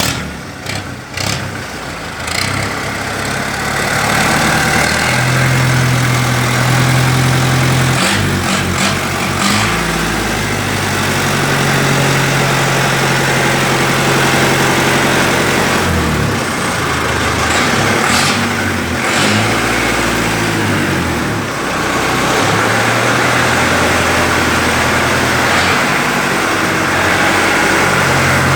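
A scout car's engine running again after being brought back to life. Its speed holds for a few seconds at a time and then rises or drops, over and over.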